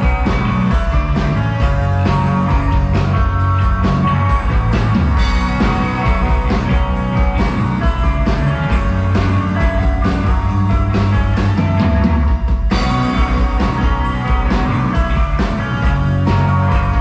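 Rock band playing live: an instrumental passage in a psychedelic rock style, with guitar and drums keeping a steady beat.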